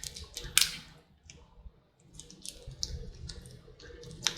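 Close-up eating sounds: chewing with scattered sharp mouth clicks and smacks, the loudest just at the start, about half a second in and near the end.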